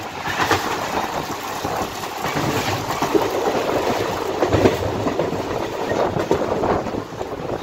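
Indian Railways passenger train running along the line, heard from an open coach doorway: a steady rumble of the coaches with irregular clacks of the wheels on the rails.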